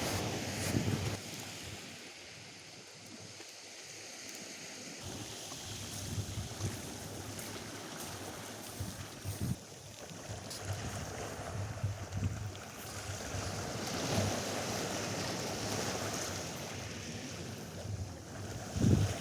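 Atlantic surf washing onto a sandy beach, swelling and easing, with wind gusting on the microphone near the start and again near the end.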